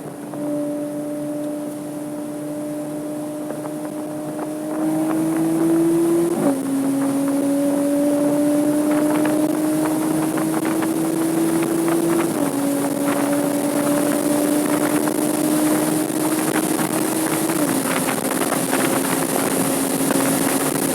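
Porsche 987.2 Cayman S flat-six under load, its note climbing steadily. It drops sharply in pitch at three upshifts, about six, twelve and eighteen seconds in. Wind and road noise run under it.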